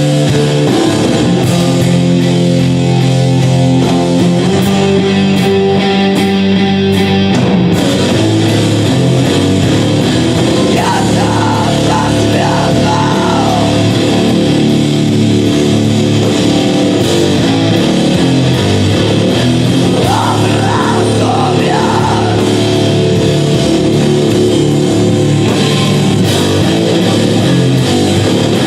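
A rock band playing live: loud, dense electric guitar and drums in a heavy rock style, with singing at times.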